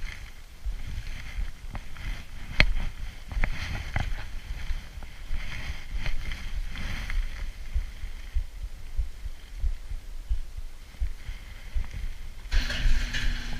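Mountain bike riding noise picked up by an on-bike camera: low wind buffeting on the microphone, tyre noise and scattered sharp clicks and rattles from the bike. About twelve seconds in, a brighter hiss and a steady hum set in.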